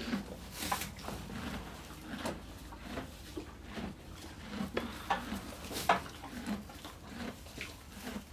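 Horse moving about in a stable, its hooves and gear giving irregular light knocks and clatters, one to three a second, with one sharper knock about six seconds in.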